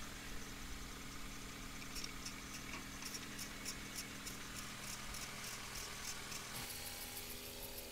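Honda Civic engine idling steadily, with a light, regular ticking over it. The tone of the engine shifts about six and a half seconds in.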